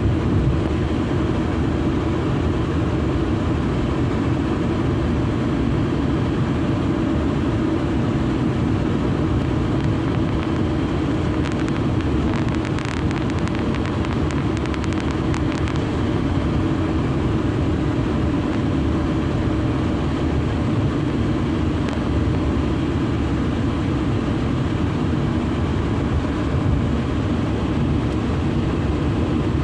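Steady road and engine noise of a car being driven at an even pace. About halfway through there are a few seconds of faint light ticking.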